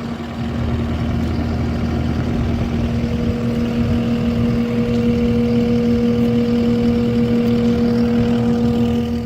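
A large engine running steadily with a constant hum, getting louder about half a second in. A higher steady whine joins about three seconds in.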